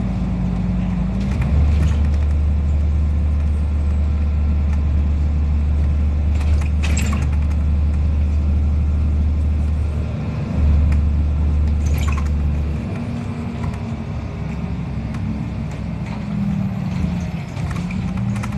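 Cabin sound of a NefAZ-5299 city bus under way: a steady low engine drone with short breaks, which falls away about two-thirds of the way through. A few sharp rattles and knocks come from the body.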